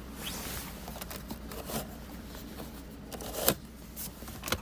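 Car interior storage compartment being opened and handled: scattered light clicks and rubbing of plastic trim, with a sharper click about three and a half seconds in and another near the end.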